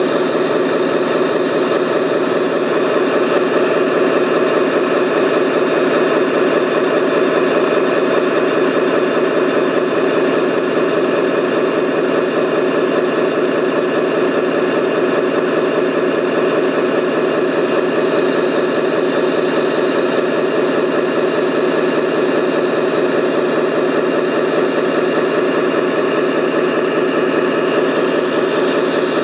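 A remote-control model construction machine's engine sound idling steadily, an even, unchanging hum.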